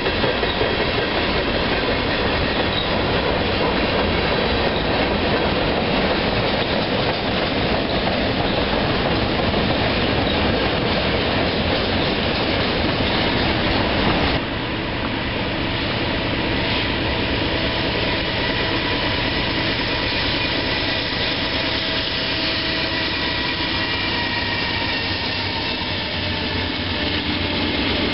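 A train running past on the rails, its wheels clattering with a faint squeal. About halfway through the sound cuts abruptly to a slightly quieter, steadier train rumble with several held tones that drift slowly in pitch near the end.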